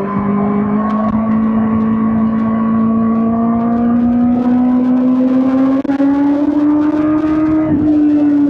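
2005 Suzuki GSX-R1000 K5's inline-four engine pulling under steady throttle, its note rising slowly over about seven seconds, then dropping slightly near the end.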